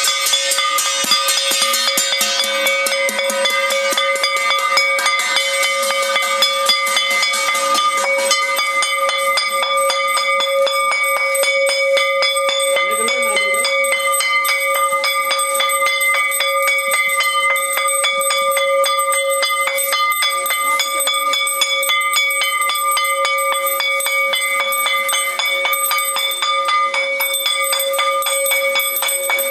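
A bell rung continuously, its clapper striking rapidly over and over so that the ringing tone never dies away. There is extra clatter over roughly the first eight seconds.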